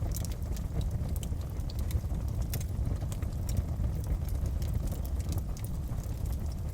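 Wood fire burning in a fireplace, crackling: irregular sharp pops and snaps scattered over a steady low rumble of the flames.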